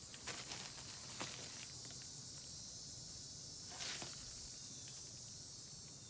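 Steady high insect chorus over the low, steady hum of a 2010 Trane XL15i heat pump, a 4-ton unit with an Alliance scroll compressor, running, with a few short steps or rustles.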